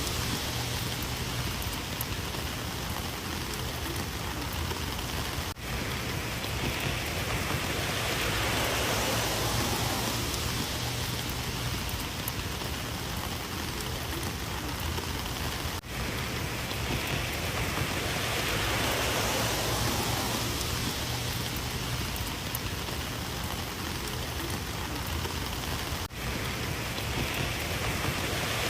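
Heavy rain falling steadily, an even hiss with a brief dip in level about every ten seconds.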